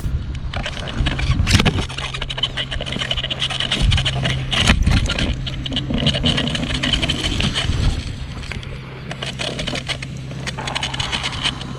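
Wind buffeting a camera microphone: a steady rushing rumble full of crackles and rustles.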